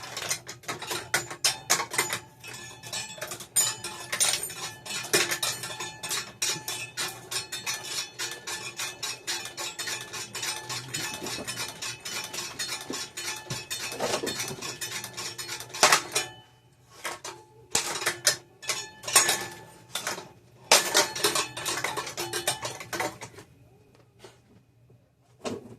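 A running ceiling fan whose spinning blades clatter and clank rapidly and without a break against something in their path, a dense metallic rattling. About sixteen seconds in, it breaks up into separate bursts of clatter, which die away shortly before the end.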